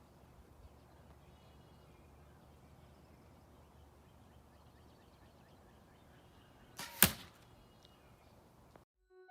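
Faint outdoor background with a few faint bird chirps, then a single sharp, loud crack about seven seconds in.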